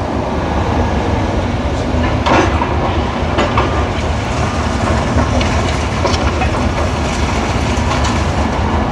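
Heavy demolition machinery running steadily with a deep rumble, with scattered knocks and clatter from a few seconds in.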